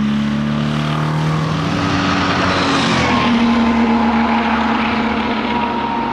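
A 1961 Steyr Puch TR Europa's small air-cooled flat-twin engine running hard under load. Its note climbs for the first three seconds, changes about three seconds in, then holds nearly steady.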